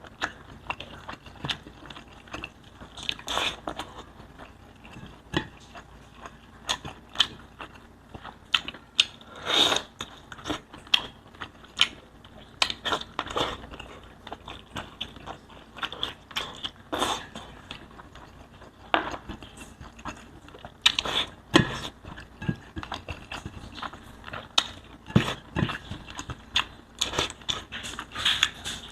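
Close-miked eating sounds of spicy pork liempo: biting and chewing with irregular crunches and wet mouth clicks.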